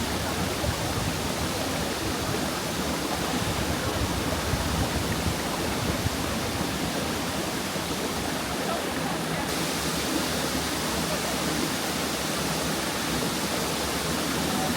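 Waterfall: falling water rushing steadily and evenly, with no break.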